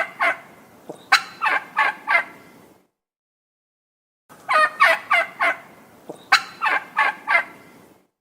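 Male turkey gobbling twice, each gobble a quick run of pulsing notes. The first is already under way at the start, and the second begins about a second and a half after it ends.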